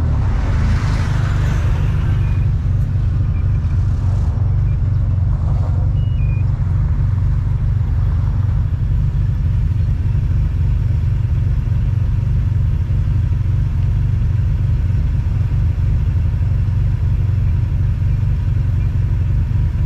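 Single-turbo Infiniti G35's VQ35DE V6 running at low speed and idle, a steady low exhaust drone heard from inside the cabin. Road noise from a bumpy surface is added in the first couple of seconds.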